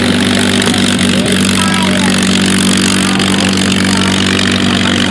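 An engine running steadily at a constant pitch, with faint voices underneath.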